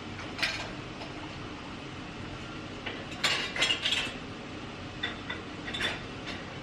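Cutlery and dishes clinking: a single clink, then a quick run of several sharp clinks a few seconds in, and a few lighter ones near the end.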